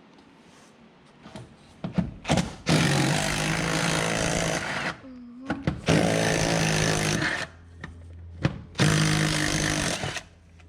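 Impact wrench running in three bursts of a second and a half to two seconds each, hammering at rusty seat bolts under a car floor, with a few clicks before the first burst.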